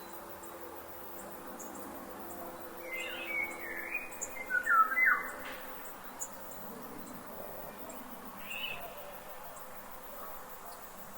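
Forest ambience with birds calling over a steady background hiss. A run of short chirping calls comes about three seconds in and is loudest around five seconds, and another brief call follows past the middle.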